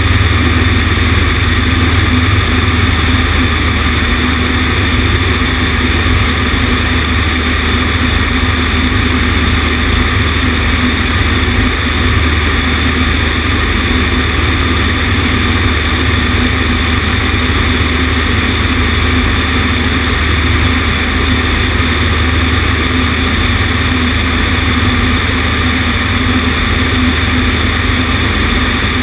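Cessna 150's four-cylinder air-cooled Continental O-200 engine and propeller running with a steady, unbroken drone. It is heard from a camera on the right wing, so rushing airflow mixes with it.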